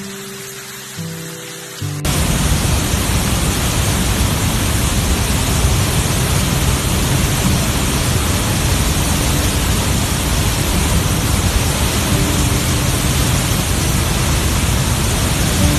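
Soft music, then about two seconds in a loud, steady rush of water noise cuts in abruptly, with faint music beneath it.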